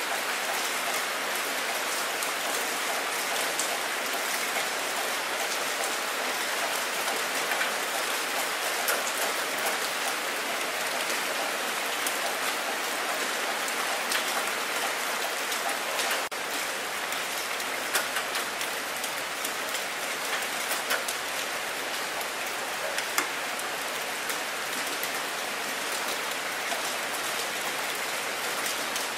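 Steady rain falling on open water: a dense hiss of countless small drops hitting the surface, with a few louder drops standing out now and then.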